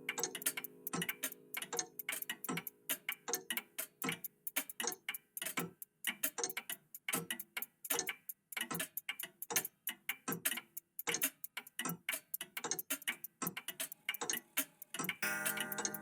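Old mechanical clocks ticking together, several ticks a second, their beats overlapping in an uneven rhythm. About fifteen seconds in, held musical tones come in under the ticking.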